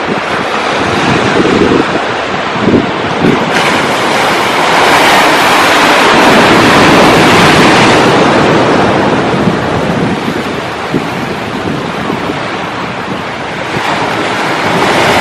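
Sea waves breaking and washing up on the shore, with wind buffeting the microphone. A wave swells about a third of the way in, peaks and slowly eases off, and another builds near the end.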